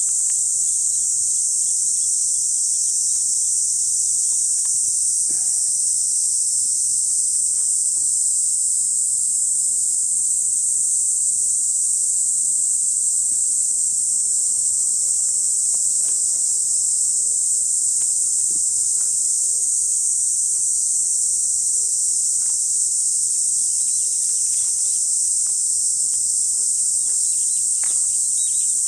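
Night insects calling in a dense, unbroken high-pitched chorus, with a few faint clicks underneath.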